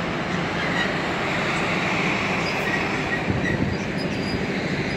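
Locomotive-hauled track maintenance train rolling slowly through the station, its engine running steadily under the rumble of the wheels. A few brief light squeaks come from the wheels on the rails.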